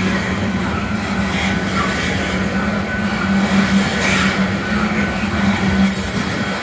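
Loaded coal train rolling past: a steady rumble of wheels on rail, with a brief high-pitched squeal near the end.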